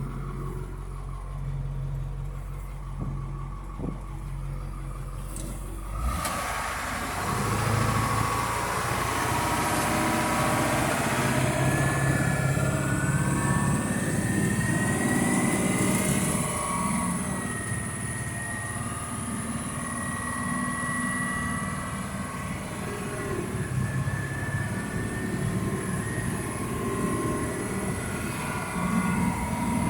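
Old Ford bucket truck's engine running with a steady low hum. About six seconds in, it abruptly gets louder as the truck pulls away and picks up speed, with drivetrain whines rising and holding over engine and road noise.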